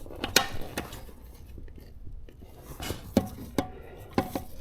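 Irregular knocks, clicks and rubbing as an e-bike tire and inner tube are worked onto the wheel rim by hand, pushing the valve stem through its hole; the sharpest knock comes a little under half a second in, with several more around three to four seconds in.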